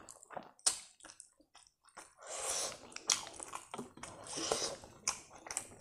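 A person chewing and biting food close to the microphone, eating rice and pickled meat by hand: scattered wet mouth clicks and smacks, with two longer hissy chewing spells about two and four and a half seconds in.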